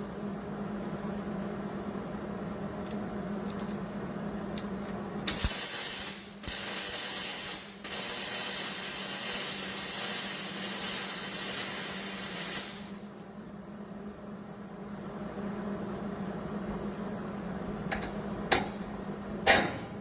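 Hobart MIG welder's arc crackling and hissing as a bead is run on hot-rolled steel, in three short runs with brief stops between, starting about five seconds in and ending about thirteen seconds in. A steady low hum runs underneath, and two sharp clicks come near the end.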